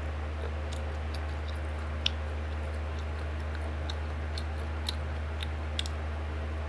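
A person chewing food close to the microphone: small wet clicks and smacks, a few sharper ones about two, five and six seconds in, over a steady low hum.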